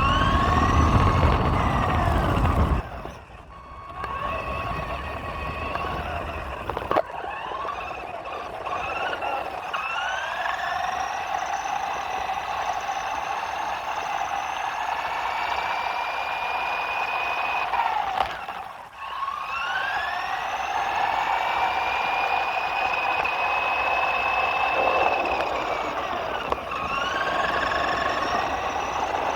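RC truck's electric motor and drivetrain whining, the pitch rising as it speeds up, holding, then falling as it slows, several times over. A low rumble runs underneath for the first few seconds.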